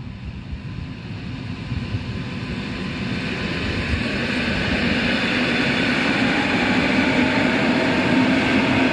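A train approaching and running past close by: the rumble and rail noise grow louder over about five seconds, then hold steady and loud.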